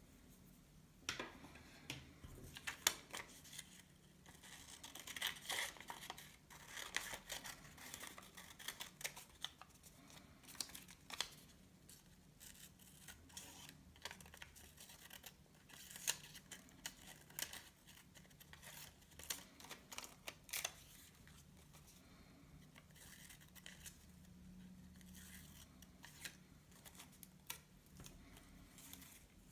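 Paper being handled and snipped with paper scissors: irregular short snips and crisp rustles, busiest for the first twenty seconds or so, then sparse.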